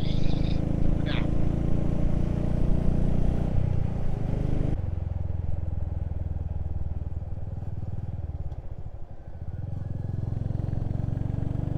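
Motorcycle engine running with road and wind noise while riding. About five seconds in the sound drops to a quieter, duller note, dips further near nine seconds as the bike eases off, then settles to a steady low running.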